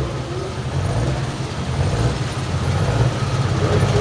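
Diesel engine running at low speed, a deep pulsing rumble that grows louder toward the end.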